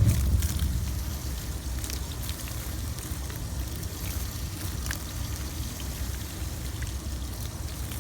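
Water from a garden hose running and splashing over a rooftop HVAC unit, a steady wash with scattered small ticks, under a heavy low rumble of wind on the microphone.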